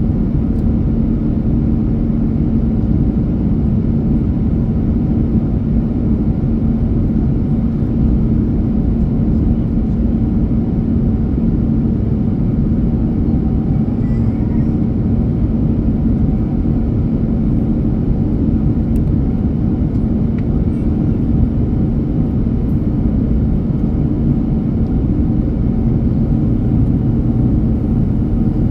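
Jet airliner's engines and airflow droning steadily, heard inside the passenger cabin, with a constant low hum.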